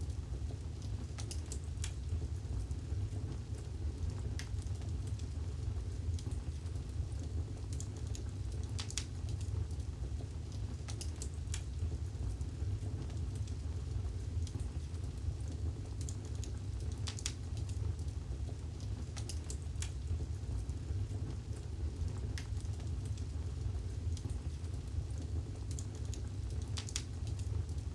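Wood fire burning in a fireplace: a steady low rumble of flames with irregular sharp crackles and pops, a handful of them louder than the rest.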